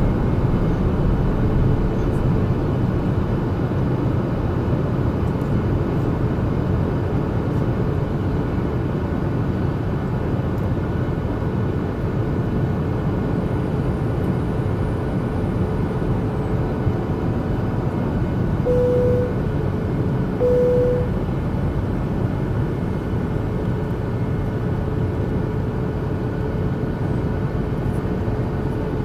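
Airliner cabin noise during the descent to landing: a steady drone of engines and airflow with a faint steady hum. About two-thirds of the way through come two short beeps, about two seconds apart.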